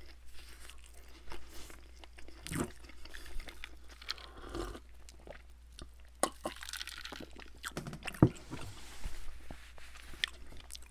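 Close-miked chewing of pizza crust, with sharp mouth clicks. About halfway through come gulps from a glass of drink.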